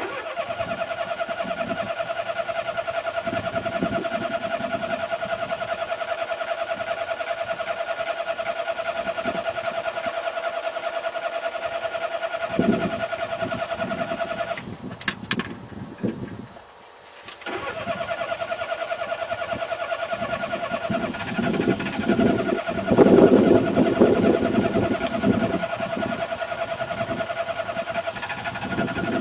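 Car engine being cranked by its starter in a long, fast, even churning run. The cranking stops for a couple of seconds a little past halfway, then starts again. Near the end it briefly gets louder and rougher as the engine tries to catch under gas-pedal pumping, but it does not start.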